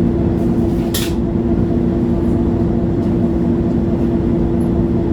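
A 2011 MAN Lion's City G articulated city bus's diesel engine running steadily, heard from inside the bus as a steady hum of several tones. A short hiss sounds about a second in.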